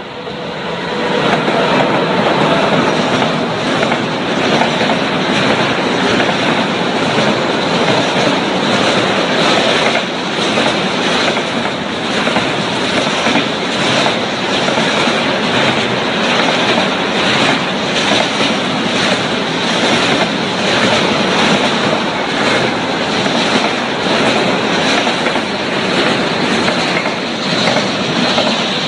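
Freight train of trailer-carrying wagons passing close at speed behind an electric locomotive: a steady loud rumble of wheels on rail with a continuous rhythmic clickety-clack as the wheelsets cross rail joints. The sound swells over the first second or two as the locomotive arrives, then holds steady as the wagons roll by.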